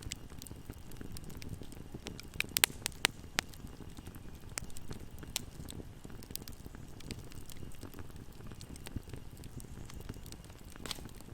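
Wood fire burning in a fireplace: a steady low rumble of flames with scattered sharp crackles and pops, and a quick run of louder pops a quarter of the way in.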